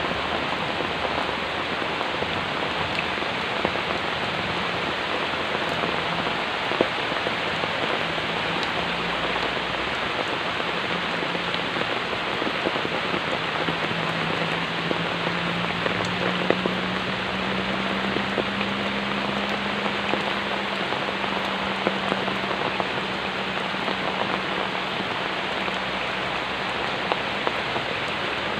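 Steady rain falling, an even hiss with scattered drop ticks, and a faint low hum underneath in the second half.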